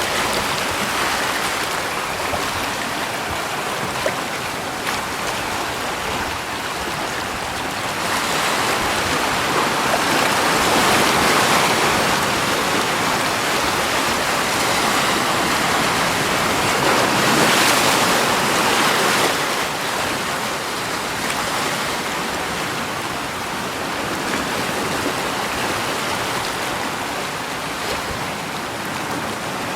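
Steady rushing water, an even hiss with no distinct events, swelling louder twice, about a third of the way in and again a little past the middle.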